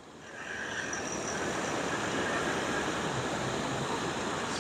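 Steady engine noise mixed with the wash of surf, building up about half a second in and then holding level.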